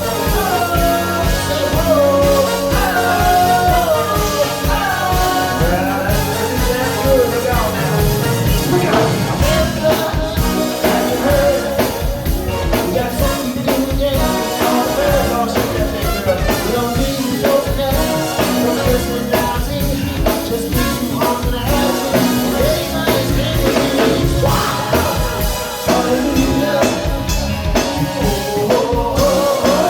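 Live funk band playing with drums, bass and a lead melody line that weaves through the first several seconds, then a steady driving beat.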